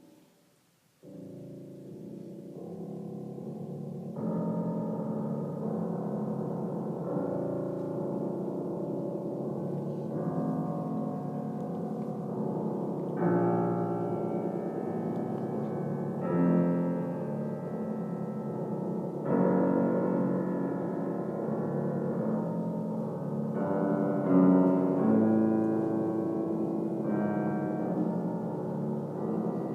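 Solo piano playing slow chords that ring on and are held with the pedal, entering about a second in, with a few louder accented chords struck along the way.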